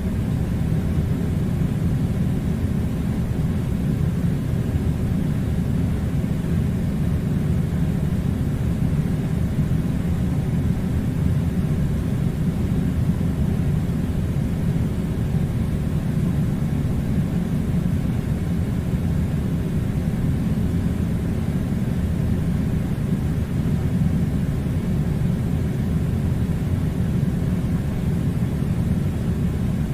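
Steady, unchanging low rumbling noise with no breaks or separate events.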